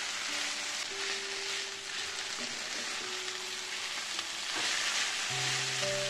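Julienned raw potato strips sizzling as they fry in oil in a nonstick frying pan, stirred with a wooden spatula. The sizzle is a steady hiss that grows slightly louder near the end.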